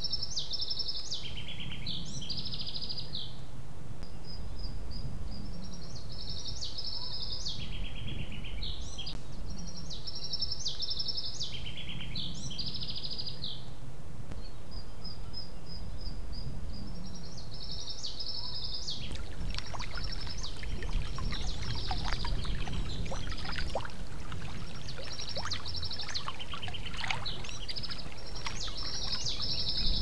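A songbird singing, repeating the same short high warbling phrase about every four to five seconds, over a steady low rumble. From about two-thirds of the way in, scattered crackles and taps join it.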